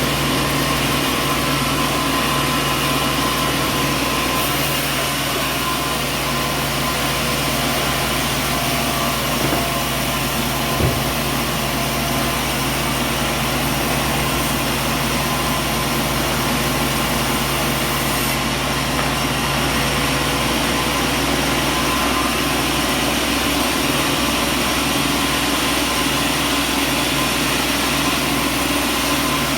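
Sawmill machinery running steadily with a constant hum and whine, and one sharp knock about eleven seconds in.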